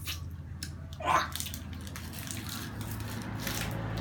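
Plastic snack wrappers crinkling in scattered short crackles as prize snack packets are handled and opened, with one short voice-like sound about a second in over a steady low hum.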